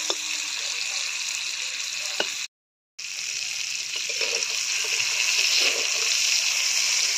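Tomato wedges sizzling in hot oil in a kadai, with a metal spatula tapping and scraping the pan a few times. The sizzle cuts out for about half a second near the middle, then carries on slightly louder.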